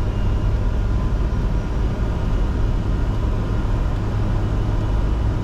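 Steady flight-deck noise of a Bombardier Challenger 605 jet climbing out after takeoff: a constant low rumble of airflow and its rear-mounted turbofan engines, with a faint steady whine above it.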